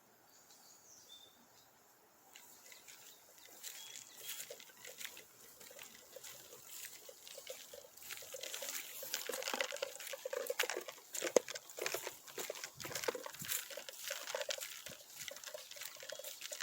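Footsteps rustling and crunching along a wooded path, an irregular patter that starts faint and grows louder after the first couple of seconds.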